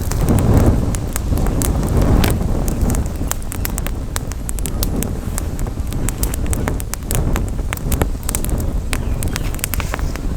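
Campfire crackling, with frequent sharp, irregular pops over a steady low rumble of wind on the microphone that swells briefly near the start.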